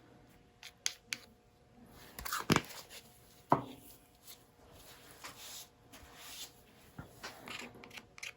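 Scattered clicks and light taps of paint bottles and plastic cups being handled while acrylic pouring paints are mixed, with two louder knocks about two and a half and three and a half seconds in.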